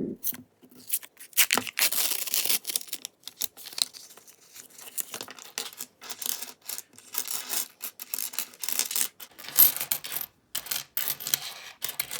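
Copper pennies clinking and sliding against each other as a roll is spread out and sorted by hand, a steady run of small clicks and rustles.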